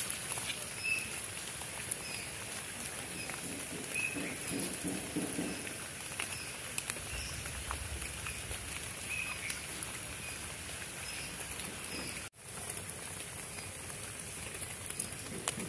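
Light rain pattering on wet leaf litter, with intermittent rustling of leaves as a climbing perch wriggles over the ground, and a few short chirps.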